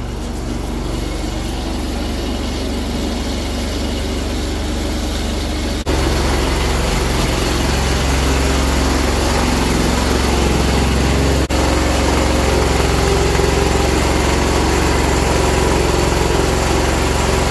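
John Deere 317 garden tractor's twin-cylinder engine running steadily under way, sounding to the owner as if it's running on one cylinder. It gets louder about six seconds in.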